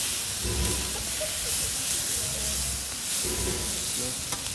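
Meat and vegetables for yakisoba sizzling and steaming on a hot griddle pan over charcoal, a steady hiss, while metal spatulas toss them. There is a sharp click near the end.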